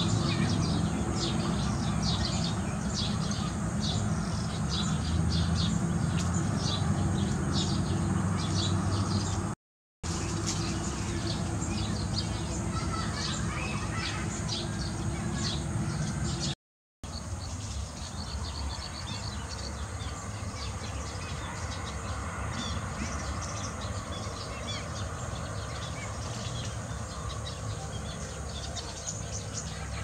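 Many small birds chirping in a dense, rapid chatter of short high notes, over a steady low rumble. The sound cuts out twice for a moment.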